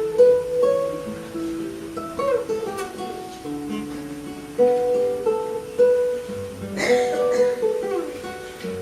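Classical guitar played solo, fingerpicked, in a jazz-flavoured piece: a line of single plucked notes over chords, with a sharp, bright accented chord about seven seconds in.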